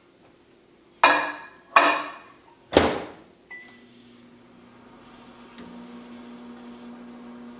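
Microwave oven being closed and started: three sharp clacks, a short beep, then the oven starts running with a steady low hum.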